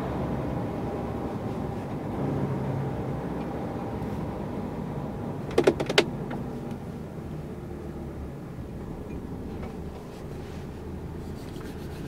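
Lorry engine and road noise droning steadily inside the cab while driving, with a short cluster of sharp clicks about five and a half seconds in.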